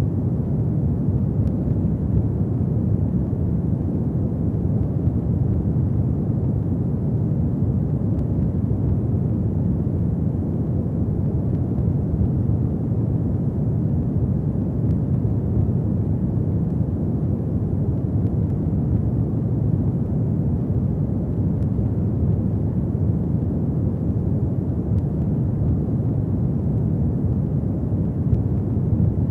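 Ambient fireplace fire: a steady low rumble of burning flames, with hardly any distinct crackles.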